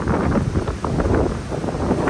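Strong gusty wind buffeting the microphone, mostly a low, uneven rush.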